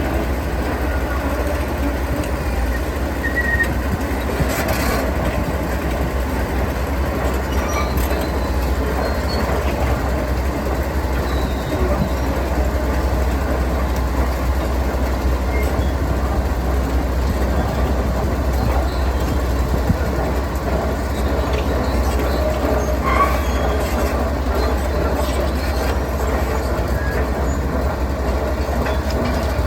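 Heavy construction machinery running steadily with a deep rumble and scattered metallic clanks and knocks.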